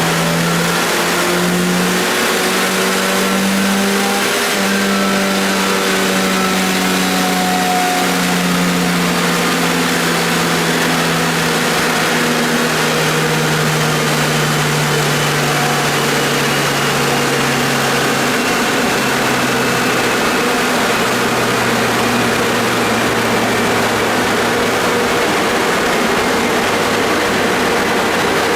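Car engine running on a chassis dynamometer with the dyno rollers spinning. The pitch rises a little over the first few seconds, then falls slowly and steadily for the rest, as engine and rollers wind down.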